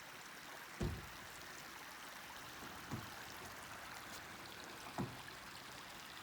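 A creek flowing, a steady rushing of water. Three dull low thumps, about two seconds apart, stand out over it, the first the loudest.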